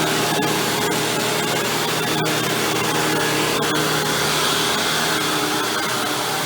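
Hoover Windtunnel Supreme upright vacuum with a chevron brush roll running steadily while cleaning, with a constant motor hum and a few sharp clicks scattered through.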